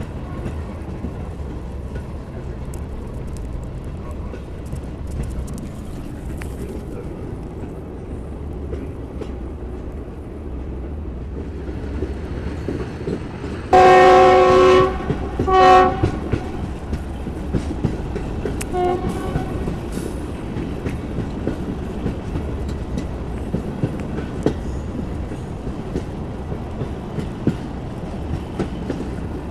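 Passenger train running, heard from aboard, with a steady rumble and clicking of the wheels over the rail joints. About 14 seconds in the locomotive horn sounds one long blast of about a second and a half, then a short second blast, and a faint short toot a few seconds later.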